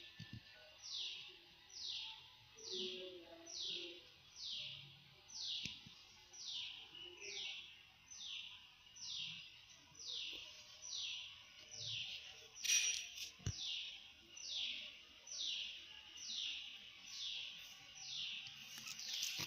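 A bird calling a short, high, falling note over and over, a little more than once a second, with a brief sharp click about two-thirds of the way through.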